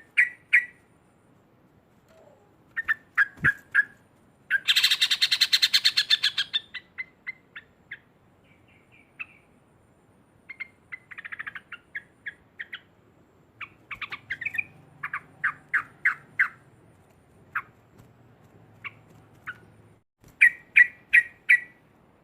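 Yellow-vented bulbul (trucuk) calling: a series of sharp, clipped chirps, with a loud, rapid chattering run (ngekek) about five seconds in. Scattered notes follow, and a quick burst of chirps comes near the end.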